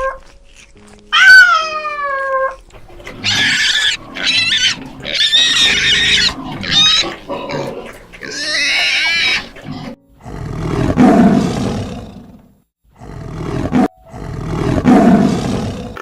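Animal calls: a meow that falls in pitch, then a run of high, harsh squeals and squawks. Near the end come two long, low, rough roars.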